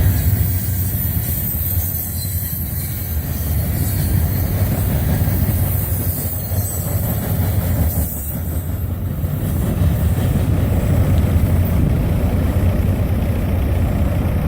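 Freight train of steel-coil cars rolling past, a steady low rumble of wheels on rails.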